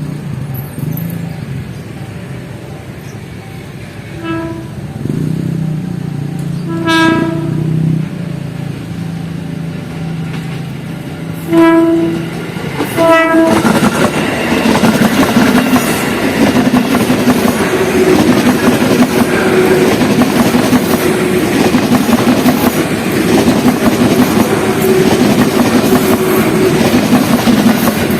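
Electric commuter train sounding its horn four short times as it approaches, then passing close by with a loud, steady rush of wheels on the rails.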